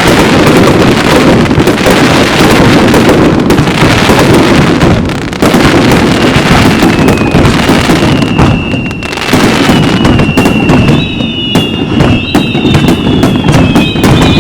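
Fireworks going off in a dense, continuous barrage of booms and crackling. From about halfway, several high whistles glide slowly downward over a run of sharp crackles and pops.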